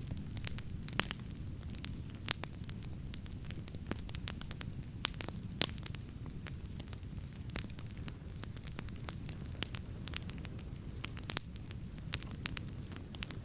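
Wood campfire burning with a steady low rumble of flames and irregular sharp crackles and pops from the burning wood.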